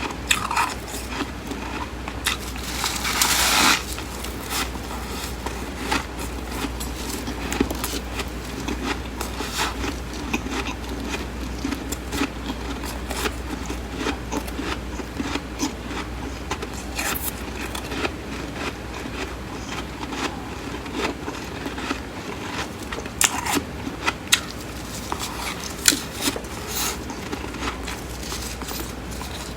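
Flaky, crisp freezer frost being bitten and chewed, with dense crackling crunches throughout and one longer, louder crunch about three seconds in. A low steady hum runs underneath.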